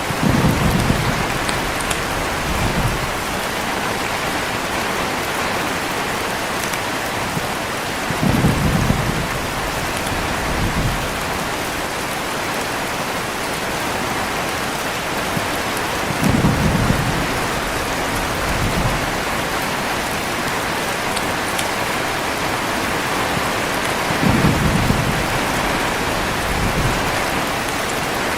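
Heavy rain falling steadily in a thunderstorm, with four low rolls of thunder about eight seconds apart, each trailed by a smaller rumble a couple of seconds later.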